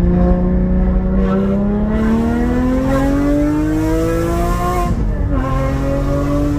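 Porsche 718 GT4's naturally aspirated 4.0-litre flat-six accelerating under load, its pitch rising steadily, then a manual upshift about five seconds in drops the revs before it pulls up again.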